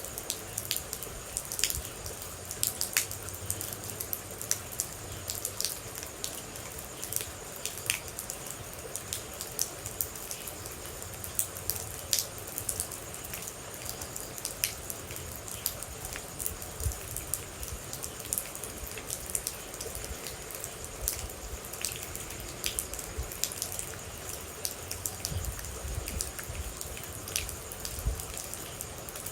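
Rain with water droplets dripping: a steady hiss under many irregular, sharp drips.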